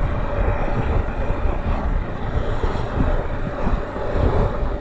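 Triumph Tiger 1200 GT Explorer's three-cylinder engine running steadily as the bike is ridden, under a constant rush of wind and road noise.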